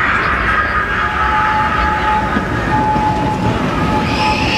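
Open-sided amusement-park train running along its track, a steady rumble with thin high-pitched whining tones over it and a brief higher tone near the end.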